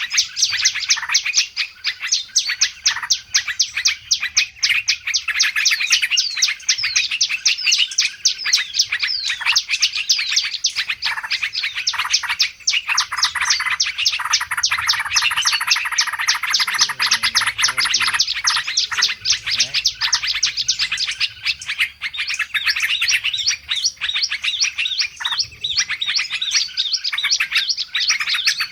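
Bird-luring recording of many small songbirds calling at once: a dense, unbroken chatter of rapid high chirps and twitters, many birds overlapping.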